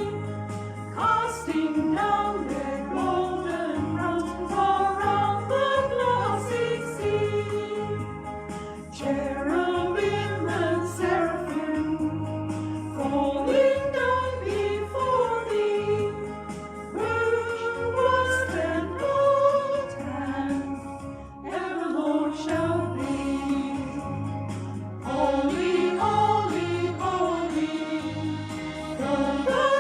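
Sacred choral music: a group of voices singing a hymn-like piece over steady low accompanying notes.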